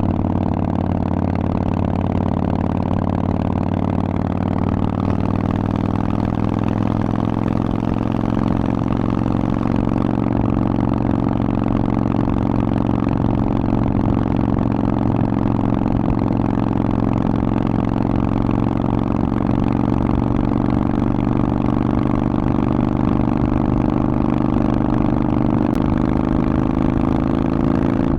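Harley-Davidson Forty-Eight's air-cooled 1200 cc Evolution V-twin running through a Vance & Hines aftermarket exhaust at a steady, low engine speed. The pitch dips slightly at first and rises gently near the end.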